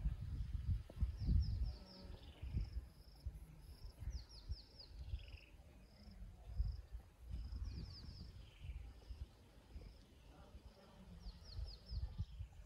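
Birds singing: repeated high chirps and quick runs of four or five falling notes every few seconds, with a few lower down-slurred calls, over a low, uneven rumble.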